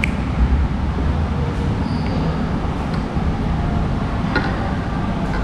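Steady low rumble of a vehicle running, with a few faint clicks, one near the start and two near the end.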